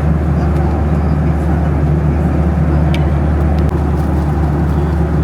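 Steady cabin noise inside a Boeing 737-700 in flight: the constant low drone of the CFM56 engines and airflow, with a few faint ticks about three seconds in.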